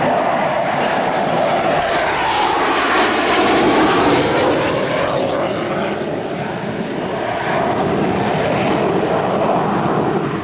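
Panavia Tornado GR4's twin RB199 turbofan jets roaring past, loudest about four seconds in, with the pitch sliding down as it goes by, then easing off a little.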